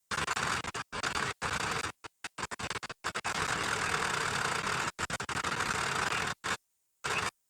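Heavy earth-moving machine's engine running, with a scraping mechanical noise, broken again and again by sudden gaps of dead silence.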